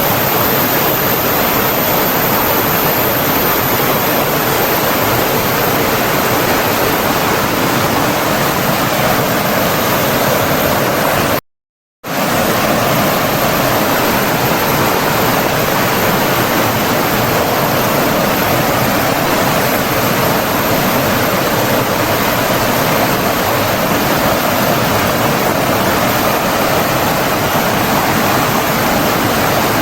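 Steady rushing of flowing water from a stream or waterfall. It cuts out abruptly for about half a second just before the middle, then resumes unchanged.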